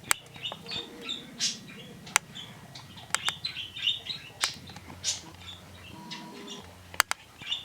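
Birds chirping in short high calls by the lake, with sharp clicks scattered through and a few brief rushing bursts like wing flaps.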